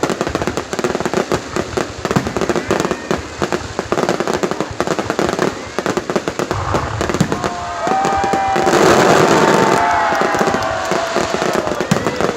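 Fireworks and firecrackers going off in a dense, rapid run of crackles and pops. From about seven seconds in, a louder rush rises and fades, carrying several long whistling tones.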